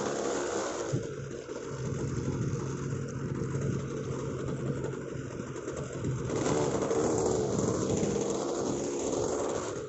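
OS 46 two-stroke nitro glow engine on a PC-9 model airplane, running with a 10x7 propeller. The engine tone holds steady for the first few seconds, then wavers up and down in pitch from about six seconds in.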